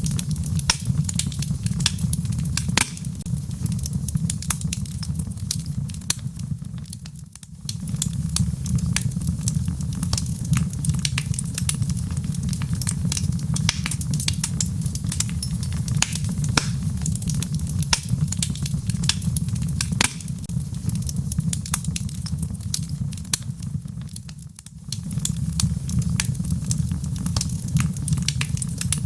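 A log fire burning in a fireplace: a steady low rumble of flames with frequent sharp crackles and pops from the burning wood. It dips briefly twice, about 7 and 25 seconds in.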